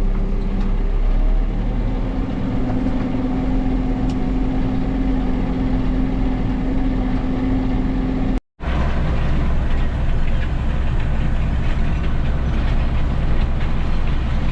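Tractor engine running steadily, its drone stepping up in pitch about two seconds in. About eight seconds in the sound cuts out for a moment, then comes back as a deeper, steady engine drone.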